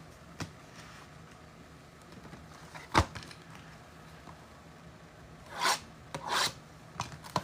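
Cardboard and card stock being handled as a trading-card Mega box is opened: a sharp tap about three seconds in, then two short rasping rubs near the end.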